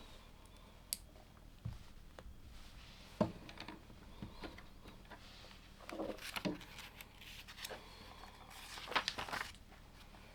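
Plastic LEGO pieces being handled and pressed together: scattered sharp clicks and knocks, with short rustling clatters of loose pieces about six seconds in and again near the end.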